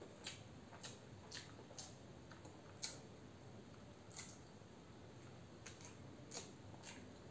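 Faint, irregular wet clicks and smacks of a mouth chewing a peeled hard-boiled egg, over quiet room tone.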